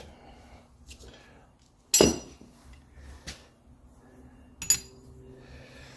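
Metal clinks and clicks from a clutch puller tool being fitted and worked on the clutch hub of an A6 air-conditioning compressor. There is a sharp clink about two seconds in, another near five seconds, and a few lighter ticks between.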